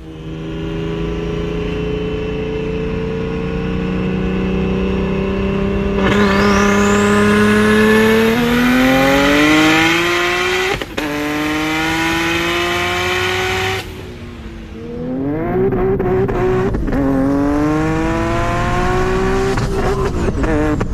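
A Nissan 370Z's VQ V6 cruising, then going to full throttle about six seconds in and climbing in pitch through the gears, with a quick shift about halfway. It lifts off briefly near two-thirds through, then pulls hard again with another shift near the end.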